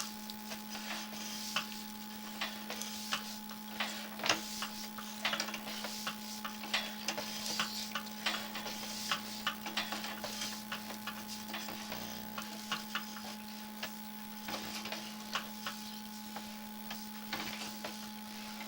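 Sewer inspection camera's push rod being fed through the line, making irregular clicks and ticks over a steady electrical hum from the camera equipment.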